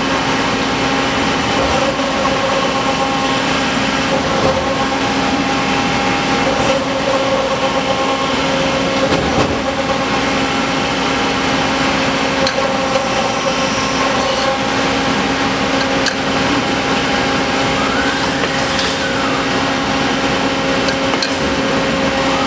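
Adaptive Motion EB-503SD CNC tube bender running: a steady machine hum with several constant tones, a few sharp clicks, and a brief whine that rises and falls about three-quarters of the way through as an axis moves.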